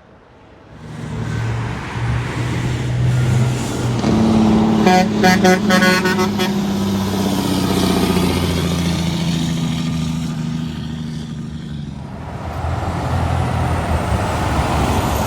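A truck approaching and passing close by, its engine and tyres loud, sounding its horn in a quick series of short blasts about five seconds in. Another vehicle comes up near the end.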